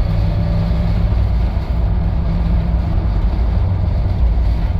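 Ford Bronco engine and road noise heard from inside the cab while cruising at speed, a steady drone. The engine is running smoothly with good throttle response now that its throttle position sensor has been replaced.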